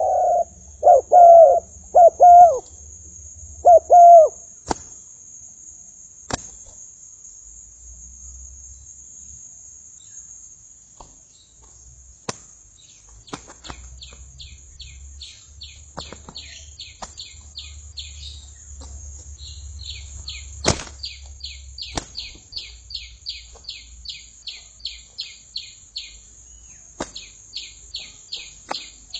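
Spotted dove cooing loudly, several phrases in the first four seconds, then sharp single clicks scattered through the rest. From about halfway, a small bird gives a long run of short, high chirps at two to three a second, over a steady high hiss.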